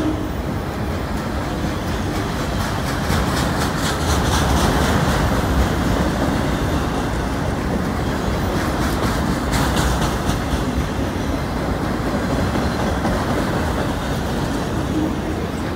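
Autorack freight cars of a CN train rolling past close by: a steady rumble of wheels on rail, with runs of quick clicks around four to six seconds in and again near ten seconds.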